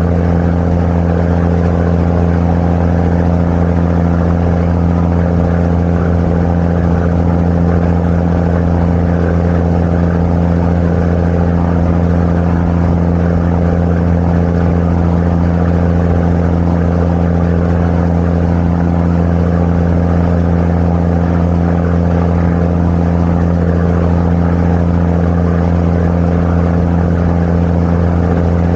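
Tour boat's engine running at a steady cruising speed, a constant low drone with a fixed hum that neither rises nor falls.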